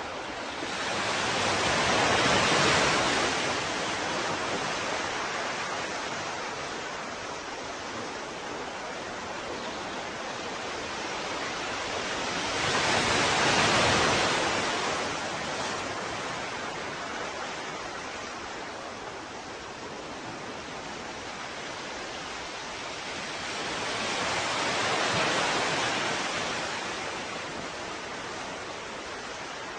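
Ocean waves washing onto a shore: a steady rushing hiss that swells three times, about every eleven to twelve seconds, as each wave breaks and draws back.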